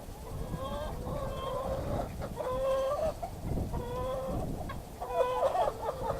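Backyard poultry calling over and over, a string of short wavering calls with a thicker cluster near the end, while the birds eat thrown bread.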